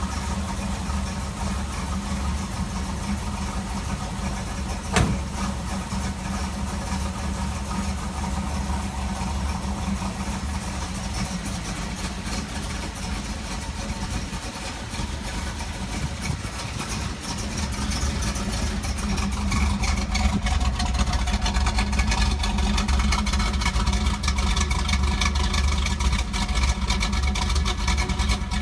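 1968 Camaro's original 327 small-block V8 with a Comp 30-30H cam and stock exhaust, idling steadily while warming up after a cold start. There is one sharp click about five seconds in, and the engine gets louder from about two-thirds of the way through.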